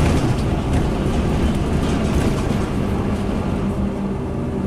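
Scania N230UD bus running, its 9.3-litre five-cylinder diesel and road noise heard steadily from on board.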